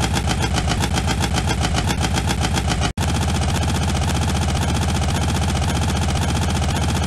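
Recorded car engine running with an even pulsing beat, cut off abruptly about three seconds in and replaced by a second, smoother-running engine.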